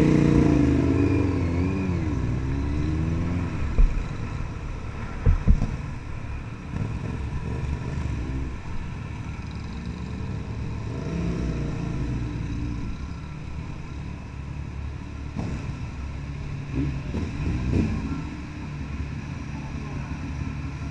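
Motorcycle engine running, its pitch rising and falling with the revs at the start and again later on. There are two sharp knocks about four and five and a half seconds in.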